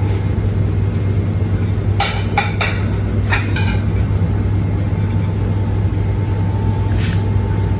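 Steady low hum of commercial kitchen machinery. Dishes clatter in a quick run of knocks about two to three and a half seconds in, and once more near seven seconds.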